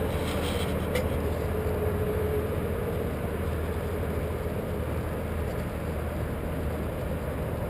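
Engine of an aerial lift truck running steadily, a low hum with a faint higher tone over it, and a couple of light clicks about a second in.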